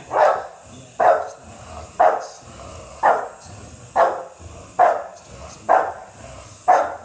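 Dog barking in a steady rhythm, eight sharp barks about a second apart, excited by a toy RC helicopter.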